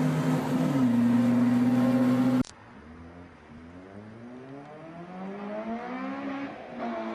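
Honda K20 2.0-litre four-cylinder engine held at high revs with a loud steady note that drops slightly in pitch about a second in. After a sudden cut, a quieter engine note climbs steadily as the car accelerates, dips briefly near the end at a gear change, and starts climbing again.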